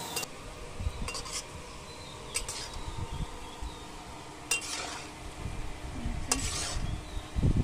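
Jackfruit pieces frying in hot oil with a steady sizzle, stirred with a metal ladle that clinks sharply against the pan about six times.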